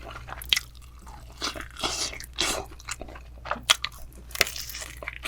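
Close-up crunching and chewing of crispy fried chicken, with a run of irregular crackles as the coating is bitten and chewed.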